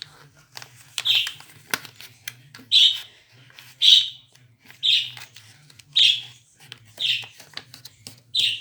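Pet parrot calling repeatedly: seven short, shrill calls at roughly one-second intervals.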